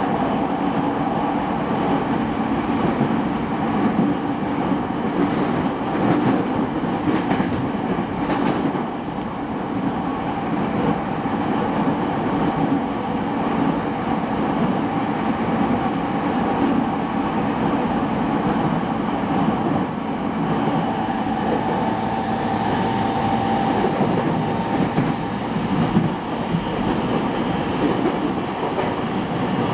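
Running noise heard inside a renewed JR East E217-series commuter train, recorded aboard a motor car: a steady rumble of wheels on rail mixed with traction-motor sound, with some clickety-clack. A faint steady tone joins in about two-thirds of the way through.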